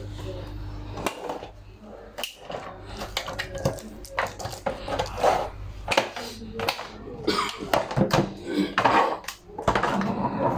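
Irregular clattering and knocking of hard objects being handled, with a low steady hum through the first half.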